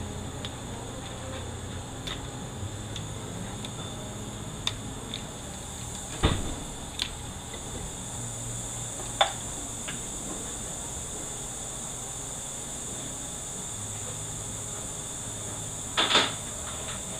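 Scattered clanks and clicks of hand tools and metal transmission parts being handled during a 4L80E teardown, the loudest about six seconds in and a double knock near the end, over a steady high-pitched hiss.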